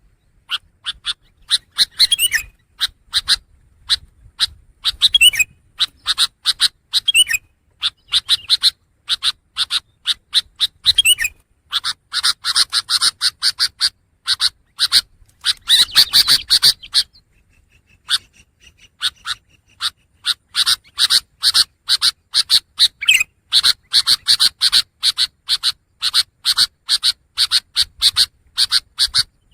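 Long-tailed shrike (pentet) singing: fast runs of short, dry chattering notes, several a second, with a few quick sweeping whistles mixed in and a brief pause a little past halfway.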